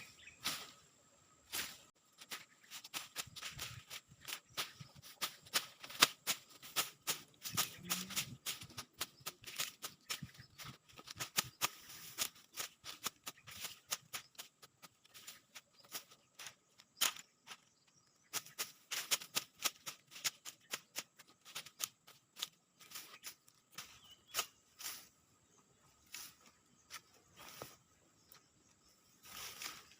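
Irregular flurries of sharp chopping strokes, sometimes several a second, from a blade slashing weeds and undergrowth.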